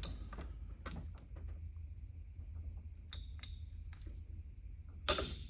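Scattered light clicks and metallic ticks from an oil filter can cutter being turned around a steel spin-on oil filter as its blade scores into the can, with a louder, brief scrape or knock near the end.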